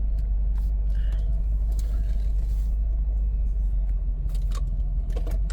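Inside the cabin of a Land Rover Discovery 2 rolling slowly in drive: a steady low engine and drivetrain rumble, with a few faint clicks in the second half.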